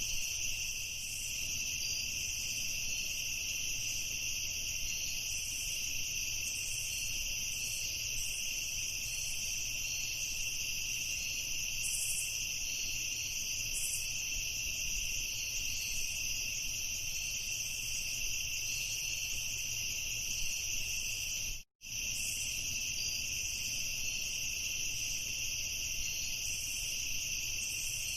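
A steady night chorus of crickets chirping, with a faint low rumble underneath. The sound cuts out completely for a split second about three quarters of the way through, then carries on unchanged.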